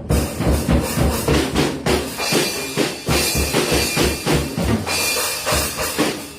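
Acoustic drum kit played hard in a fast, busy pattern: bass drum, snare and cymbals. The playing breaks off near the end.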